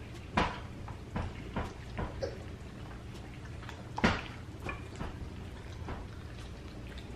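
Tableware clattering during a meal: scattered clinks and knocks of forks and serving utensils against plates, the two loudest about half a second in and about four seconds in, over a steady low hum.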